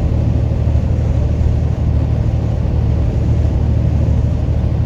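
Steady low drone inside a semi-truck cab cruising at highway speed: engine and road noise running evenly.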